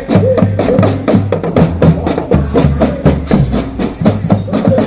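Marching drum band playing: a fast, even drum rhythm with a low bass line and a melody over it.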